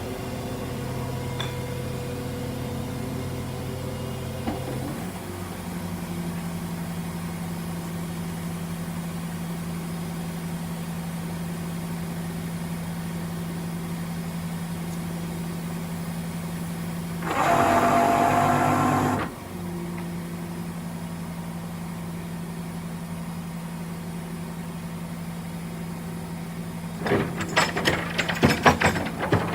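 A vehicle engine idling steadily, its note shifting about five seconds in. About two-thirds of the way through comes a louder two-second burst, and near the end a run of sharp clanks and rattles.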